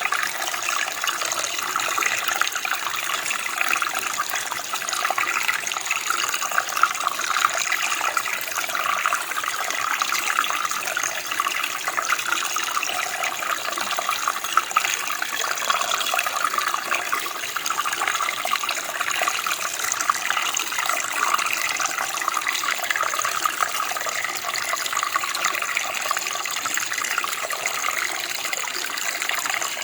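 Running water, a steady bright splashing flow of a stream or small cascade.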